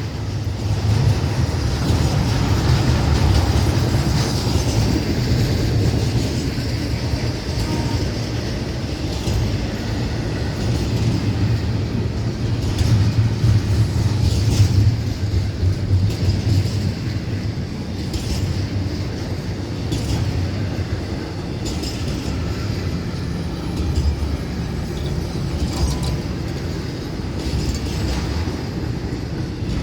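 Florida East Coast Railway intermodal freight train rolling past, a steady low rumble of cars with scattered clicks of wheels over the rails. The train is slowing as it reaches a curve.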